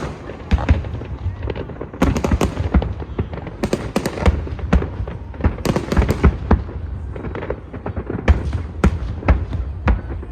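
Aerial fireworks bursting in irregular succession: a dozen or more sharp bangs and booms, some in quick clusters, over a low rolling rumble.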